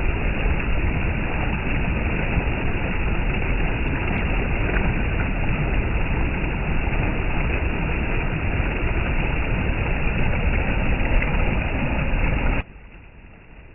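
Steady engine and road noise of a vehicle on the move, a dense rumbling hiss with no distinct beats, which cuts off abruptly about a second before the end.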